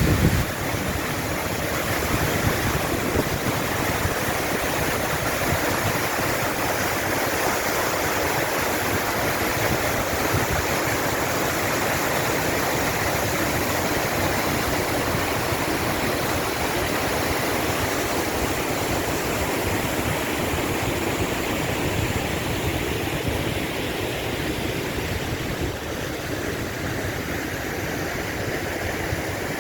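Rushing water: a steady, continuous rush that eases off slightly near the end.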